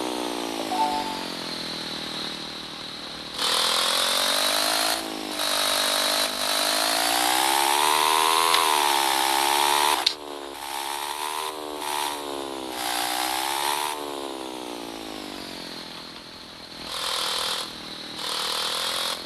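Small motorcycle engine running and being revved, its pitch rising and falling repeatedly, with several louder stretches of added hiss.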